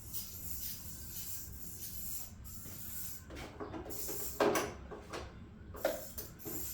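Metal parts and tools being handled during a teardown: rubbing, then a run of short knocks and clatters in the second half, the loudest about four and a half seconds in.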